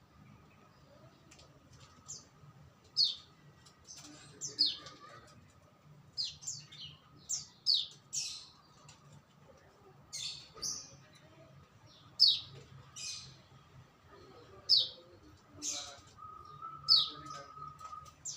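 Songbird chirping: short, sharp calls, each a quick downward sweep, coming at irregular intervals, some several a second, with a faint steady tone underneath.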